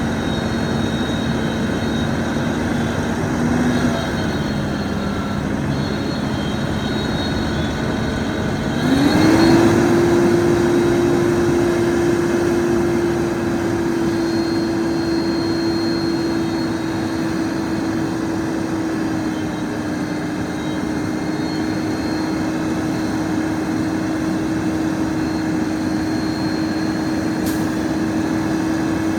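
2011 Kenworth T800 roll-off truck's diesel engine running steadily, then revved up about nine seconds in and held at a higher, even speed.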